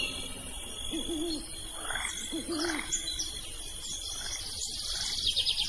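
Two short, low hooting bird calls, about a second and a half apart, over a steady high insect drone; a fast high trill comes in near the end.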